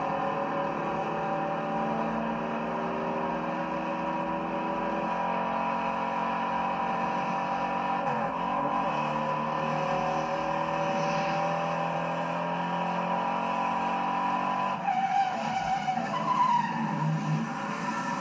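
V8 engines of a Ford Mustang GT 390 and a Dodge Charger R/T running hard, their pitch rising and falling as they rev through the gears. About fifteen seconds in, the sound turns rougher and choppier, with tyre skidding.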